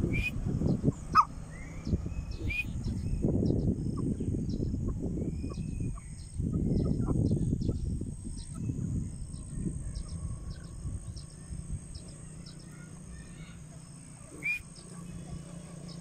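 Birds calling: a few short, sharp rising notes near the start and one more near the end, over a low rumbling noise that fades after about ten seconds.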